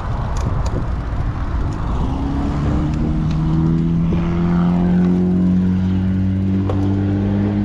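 A motor vehicle's engine running close by: its hum comes in about two seconds in and rises slowly in pitch, over a steady rushing noise.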